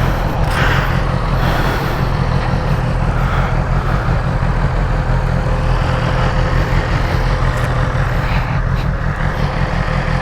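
Sport motorcycle engine running steadily, a low rumble with a faint steady whine over it.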